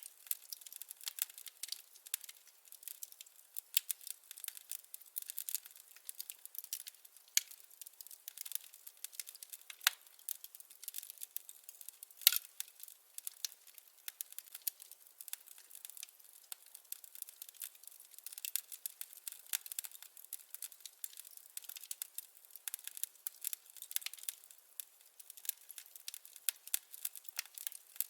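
Wood fire crackling: a steady scatter of small snaps and pops, with one sharper pop about twelve seconds in.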